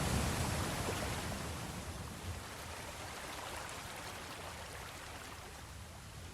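Ocean surf: the wash of a spent wave hissing and fading steadily after the break, with no single splash standing out.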